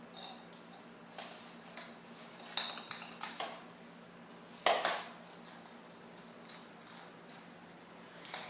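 A scattering of light clinks and clatters of small hard objects, some with a short ringing tone, with one sharper knock about halfway through.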